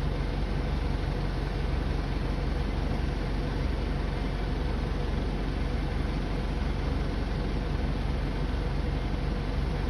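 Steady low engine rumble with an even hiss during a Boeing 737's pushback, unchanging throughout.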